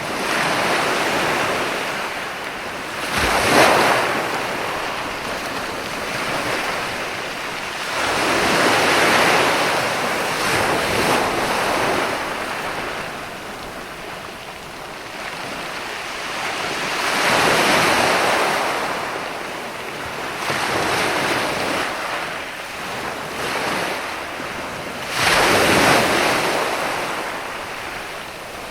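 Mediterranean sea waves breaking and washing up onto a beach: a steady wash that swells and recedes in about six surges, the loudest a few seconds in and near the end.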